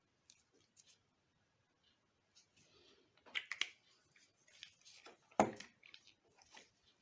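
Light handling noises: scattered small clicks and rustles, a quick cluster of clicks in the middle, and one sharper knock about five seconds in.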